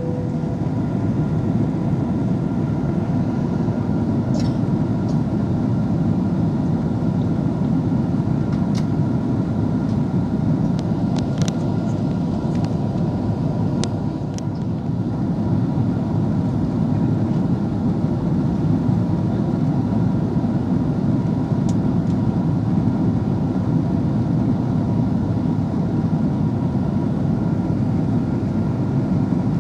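Steady airliner cabin noise inside an Airbus A330-300: an even rumble of the engines and airflow, with a few faint steady tones and a handful of faint clicks scattered through it.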